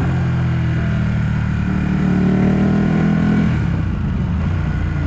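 Ducati 1199S superbike's L-twin engine running at steady revs while riding, easing off about three and a half seconds in.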